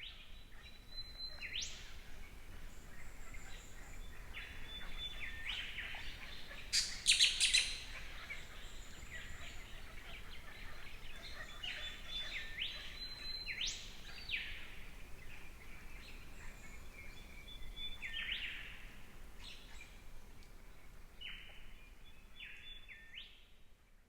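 Forest birds calling: repeated phrases of a short held whistle that breaks into a quick rising or falling sweep, with a brief burst of rapid clicks about seven seconds in.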